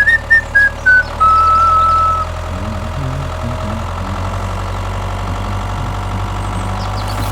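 Steady engine drone of a mini tractor's motor idling, with a few short whistled notes over it in the first two seconds, the last one held for about a second.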